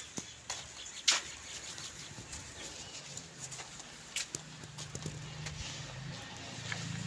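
Dairy livestock: a long, low call begins about three seconds in and runs for several seconds, with scattered knocks and clatters throughout.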